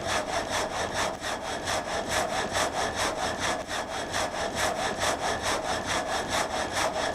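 Water-powered sawmill's vertical reciprocating saw frame cutting through a log, the blade rasping in an even rhythm of about four strokes a second.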